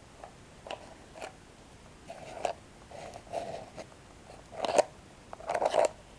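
Close-up crunching of toasted breadsticks being bitten and chewed: a few sharp cracks at first, then bursts of crunching, the loudest a little before five seconds in.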